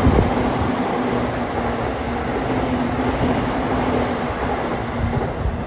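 Passing train running at speed, a steady rolling rumble with a low hum under it that slowly eases toward the end.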